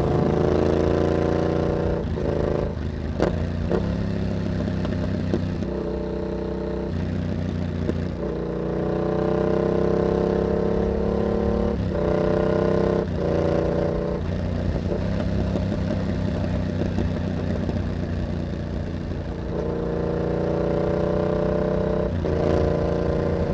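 Yamaha MT-07's parallel-twin engine through an aftermarket carbon hexagon exhaust with dB killer, pulling hard up through the revs and easing off. The pitch climbs and then drops back at each of several gear changes, with stretches of steadier running in between.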